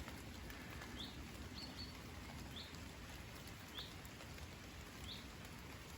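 A small bird giving short, high chirps, four or five of them about a second apart, over a steady hiss of falling rain.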